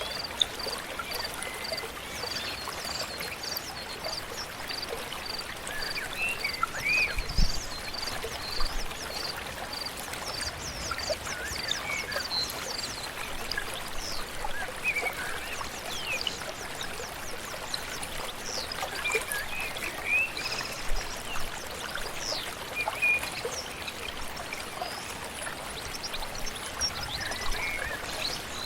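A flowing stream or river runs steadily under birdsong: one bird repeats a short high note about three times every two seconds for roughly the first half, while other birds give scattered chirps and whistles.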